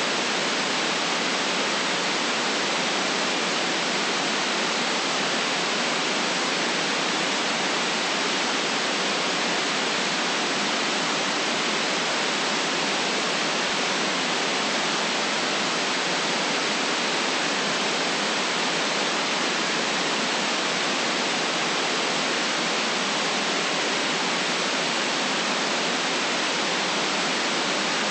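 Steady white noise: an even, unchanging hiss with no deep bass and no very high treble.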